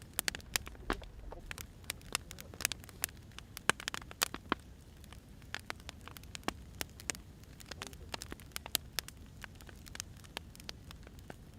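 Wood fire crackling: irregular sharp pops and snaps of burning firewood over a soft low rumble.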